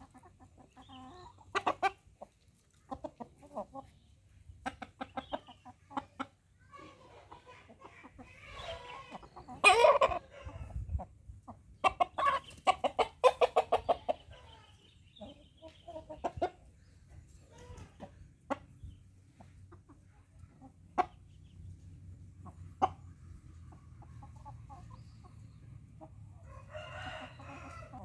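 Chickens clucking, with a rooster crowing near the end, mixed with scattered sharp knocks and flurries. The birds are a Bangkok game rooster and a white kampung chicken.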